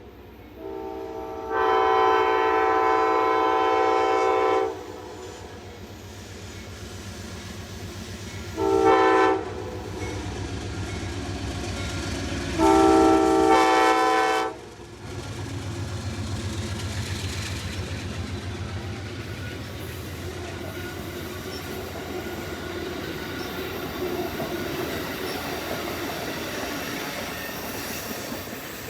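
Amtrak diesel locomotive horn sounding three blasts: a long one, a short one, then another long one. The train then rolls past with a steady rumble of wheels on the rails.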